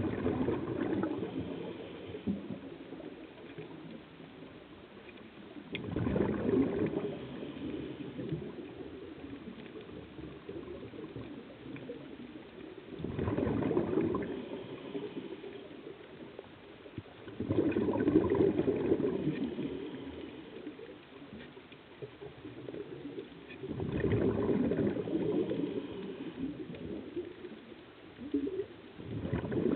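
Scuba diver's exhaled air bubbling out of the regulator underwater, in gurgling bursts of two to three seconds coming about every six seconds with each breath, five times, over a quiet steady underwater hiss.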